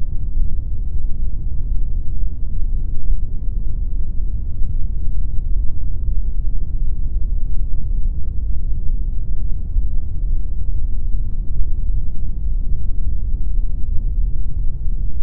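Continuous generated pink noise: a steady, even rush with no rhythm or tones, weighted heavily toward the bass and with very little treble.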